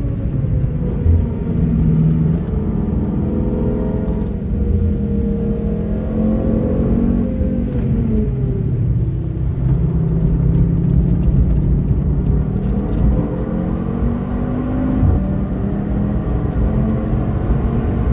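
Audi TT RS's turbocharged five-cylinder engine heard from inside the car at speed, over steady road and tyre rumble. The revs fall under braking, rise, drop again into a slow corner about eight seconds in, then climb steadily under hard acceleration in fourth gear.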